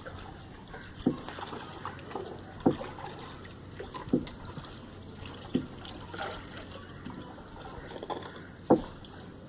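Canoe being rowed: a short splash of the blade in the water about every second and a half, with water trickling between strokes.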